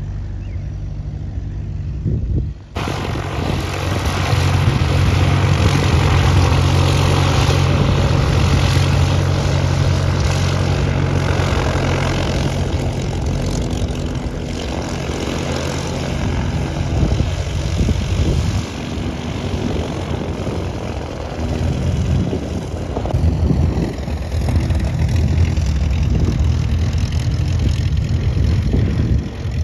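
Light propeller airplane's piston engine running with a loud, steady drone. The sound changes abruptly a few seconds in, as at a cut between clips.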